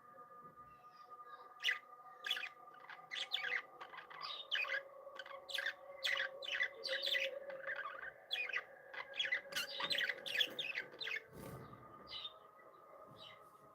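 Budgerigars chirping and chattering: quick short chirps in busy clusters, thinning out near the end.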